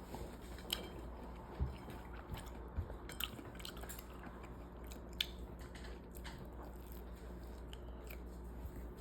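A person chewing and biting food close to the microphone, with a few sharp clicks and crunches scattered through it over a steady low hum.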